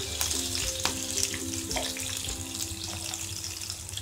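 Stuffed pointed gourds (parwal) frying in shallow oil in a pan, a steady sizzle, with a few light clicks of metal tongs against the pan as they are turned.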